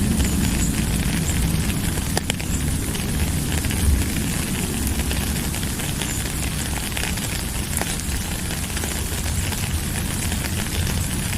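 Steady rain: a constant hiss over a low rumble, with scattered sharp ticks of single drops.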